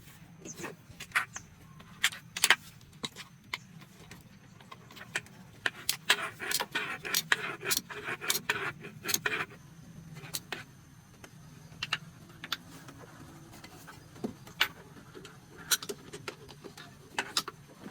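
Metal tools and engine parts clinking and clattering in irregular sharp clicks, busiest for a few seconds in the middle.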